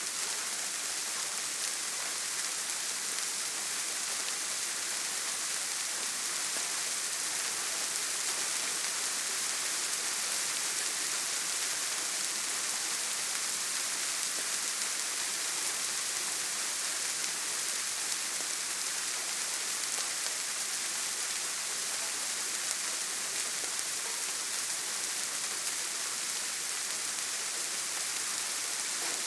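Steady heavy rain on a tin roof: an even, high-pitched hiss of countless drops that holds without change, with no thunder.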